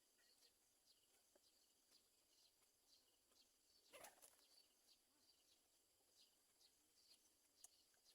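Near silence, with faint, short, high bird chirps scattered throughout and a brief louder rustle about four seconds in.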